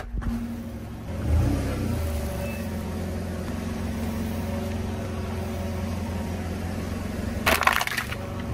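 Car engine idling with a steady low hum, with a brief burst of noise near the end.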